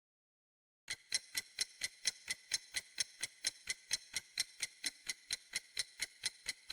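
Clock-like ticking, about four evenly spaced ticks a second, starting about a second in and stopping abruptly near the end: a ticking-clock timer sound effect.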